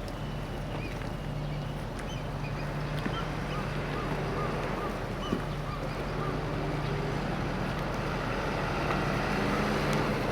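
Car ferry's engine running with a steady low hum under wind and rushing water, with faint short chirps scattered through.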